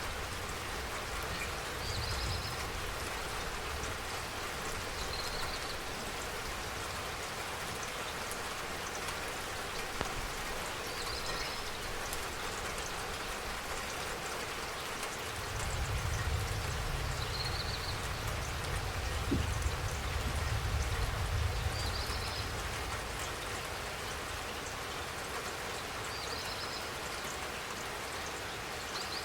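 Steady rain falling, with a faint short high chirp every few seconds and a low rumble lasting about six seconds from just past the middle.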